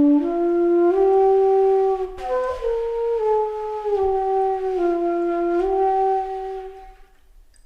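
A slow flute melody of long held notes, one note at a time, fading out near the end.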